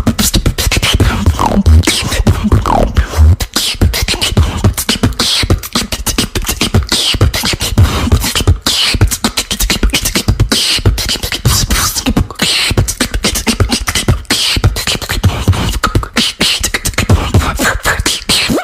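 Beatboxing: a person's mouth and voice making a fast, continuous stream of deep kick-drum thumps and sharp clicks and snare-like hits, with short sliding vocal tones between them.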